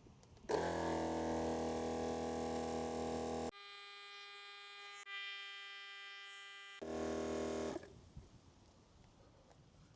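Kings 12V portable tyre compressor running with a steady electric hum, cut off and switched abruptly as stretches of footage are joined. The middle stretch is higher-pitched and thinner, and the hum fades out about 8 seconds in.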